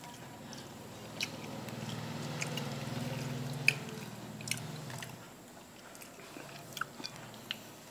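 A person chewing a mouthful of food, with scattered small clicks. A low steady hum comes in about a second and a half in and fades out around five seconds.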